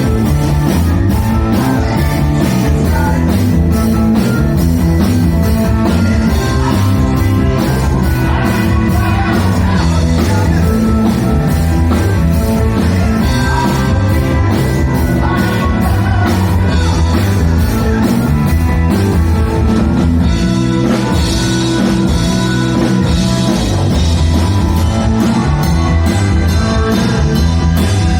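Rock band playing live: drum kit and electric guitar at a loud, steady level, with a regular drum beat throughout.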